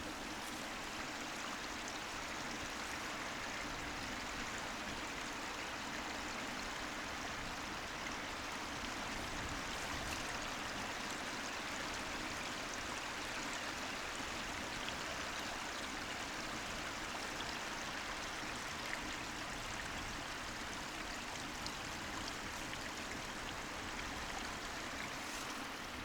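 A hill stream running steadily: an even rush of flowing water with no breaks.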